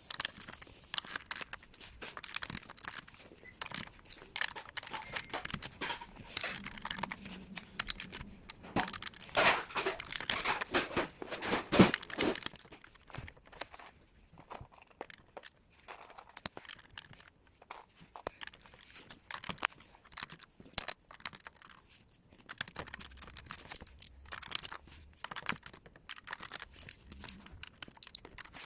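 Plastic Lego bricks being handled and pressed together: irregular small clicks and rustling, busiest and loudest around ten to twelve seconds in, then sparser.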